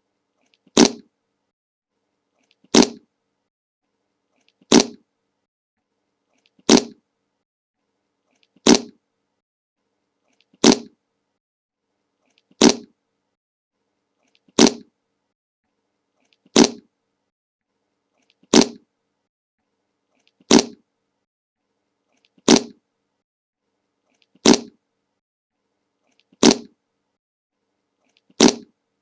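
A short fart sound effect played over and over in a loop, one identical burst about every two seconds with silence between.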